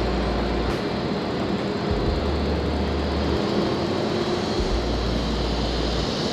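Wind rushing over an action camera's microphone during a bike ride: a steady noise with heavy low rumbling gusts that come and go every second or two.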